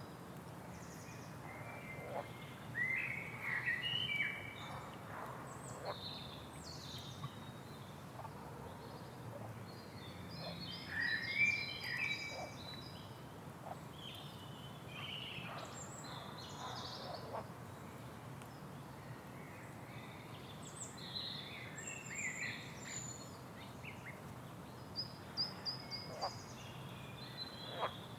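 Several wild birds singing and calling in short chirps, phrases and trills that come and go throughout, over a faint steady low background noise.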